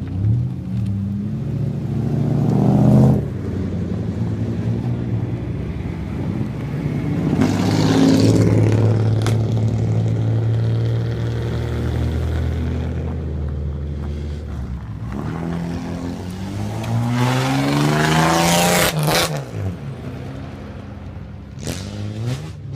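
Car engines with loud aftermarket mufflers revving: the exhaust pitch rises three times, most strongly near the end, with steady running between.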